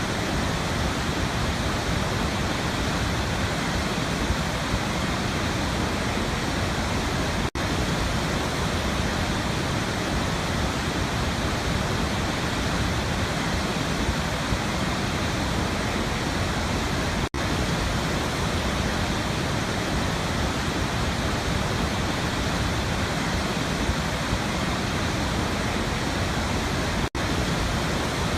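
Waterfall: a steady, even rush of falling water, with three very brief dropouts about ten seconds apart.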